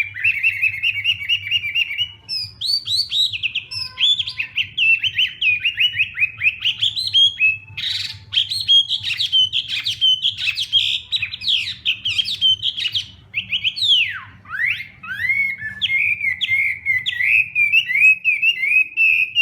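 Chinese hwamei singing a long, continuous, varied song of rapid repeated notes and slurred whistled phrases, with a deep swooping glide about two-thirds of the way through.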